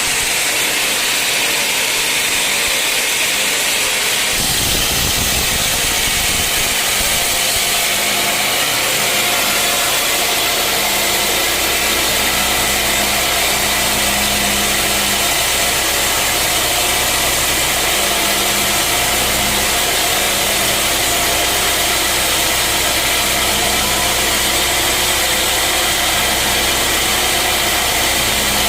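Sawmill machinery running steadily: a constant hiss across the highs, joined about four seconds in by a low engine-like hum that settles into a steady drone.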